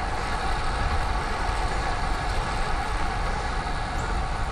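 Steady wind and road noise on a bike-mounted action camera's microphone while riding a road bike, with a heavy low rumble.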